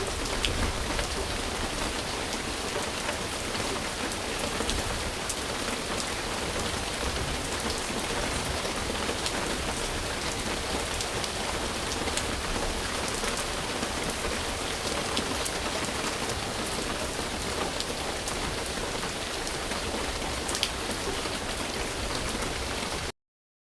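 Steady rain falling on a surface, an even hiss with scattered drop ticks, cutting off suddenly near the end.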